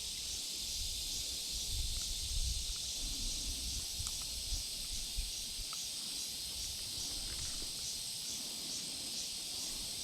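Steady high-pitched insect chorus with a regular pulse of about two beats a second, over low rumble and a few faint clicks.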